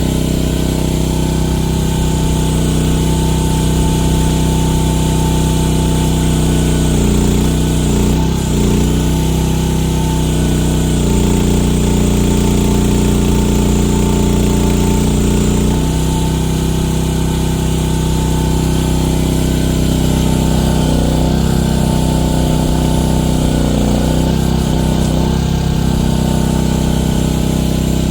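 Small gasoline engine of a one-ton mini excavator running loudly and steadily while its hydraulics are worked; the engine note dips and shifts several times as the hydraulics take load.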